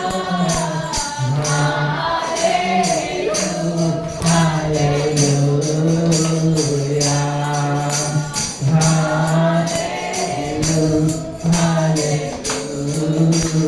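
Voices singing a Hindi worship song in long, held lines, with a tambourine shaken and struck in a steady beat.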